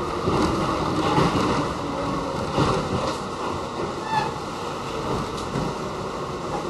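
Inside an R68 New York City subway car under way: a steady rush of wheels on the rails, with scattered clicks and rattles.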